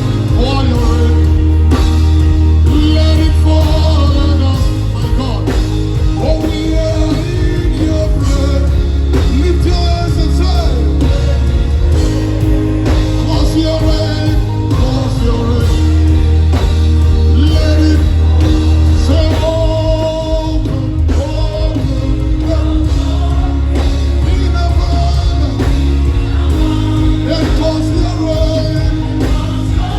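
Live worship band music with a singer: long held bass and keyboard chords that change every few seconds, with a voice singing wavering lines over them.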